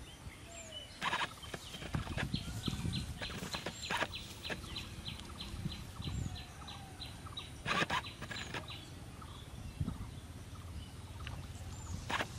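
A bird repeats a rapid series of short high notes, about four a second, for several seconds, over outdoor ambience. A few short rustling noises stand out, the loudest near the start and about two-thirds of the way in.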